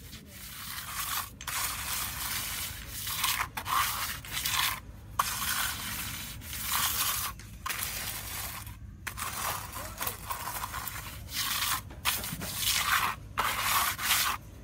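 Hand trowel scraping and smoothing wet concrete along the back of a kerb edging, in about ten strokes of a second or so each with short pauses between.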